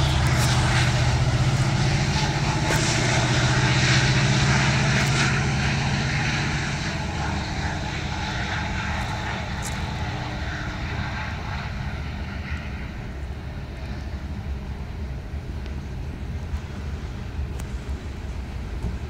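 A train passing: the locomotive's engine is loud and steady for the first several seconds, then fades as it moves away, leaving a steady rumble of the cars rolling by with scattered clicks.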